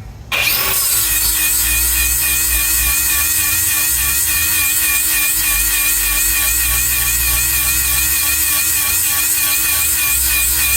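A handheld power tool switched on just after the start, then running steadily with a high whine while it sharpens the cutting teeth on a Bandit Beast 4680 grinder's mill.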